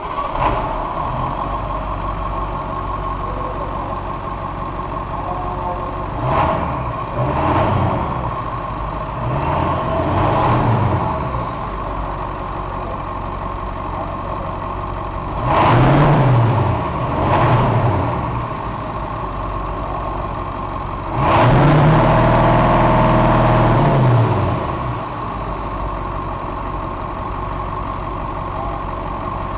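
International T444E V8 turbo-diesel engine idling steadily and revved up several times in short blips, then held at higher revs for about three seconds before dropping back to idle.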